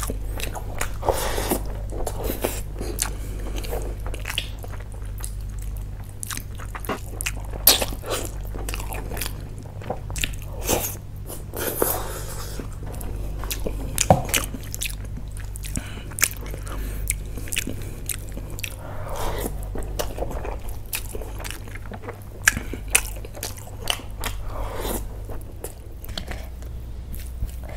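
Close-miked eating: a person chewing and biting mouthfuls of mutton curry and biryani eaten by hand, with many short sharp clicks and crunches, over a steady low hum.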